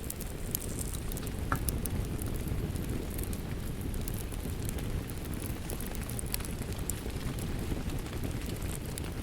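Wood fire crackling, with scattered sharp pops, over a steady rush of rain.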